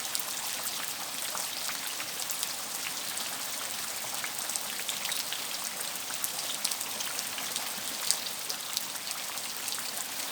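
Steady rain falling, an even hiss with many separate drops landing as sharp ticks, one louder about eight seconds in.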